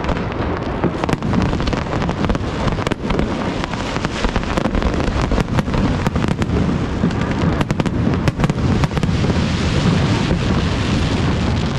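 Fireworks display going off in rapid succession: many sharp bangs close together over a constant low rumble, with crackling growing denser near the end.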